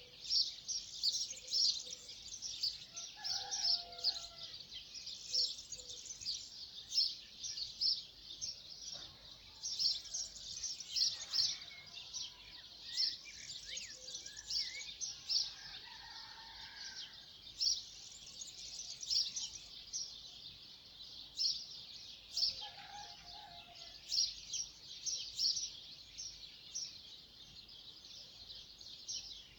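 Dawn chorus: many birds chirping rapidly and continuously in a dense, high-pitched chorus, with a few lower calls now and then.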